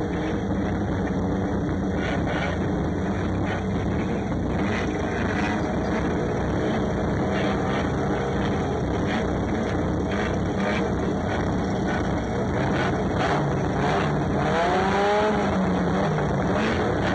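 Banger race car's engine running while the car rolls slowly, heard from inside the stripped cabin with knocks and rattles through it; the engine pitch rises and falls briefly about two thirds of the way through.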